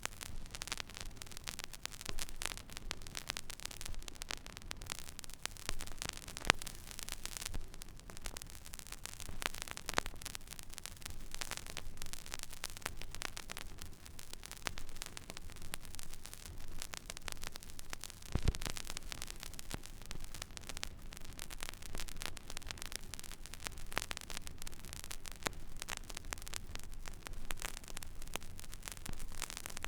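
Record player stylus tracking an empty vinyl groove: steady surface hiss with a low hum and frequent scattered crackles and pops, a louder pop about six and a half seconds in and another near eighteen seconds.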